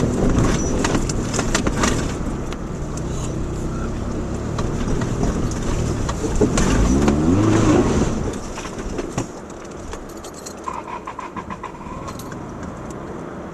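Subaru Outback's engine running under load on a rough dirt road, with knocks and rattles from the car over the bumps. The engine revs up briefly about six seconds in, then falls quieter.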